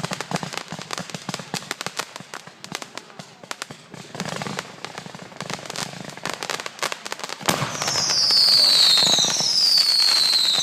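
Consumer fireworks going off: a rapid run of crackling pops, then, about three-quarters of the way in, a louder stretch with several whistling fireworks, each whistle sliding down in pitch.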